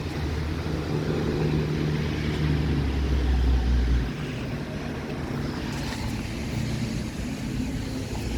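Low, steady rumble of a vehicle engine close by, louder for the first four seconds and then dropping back.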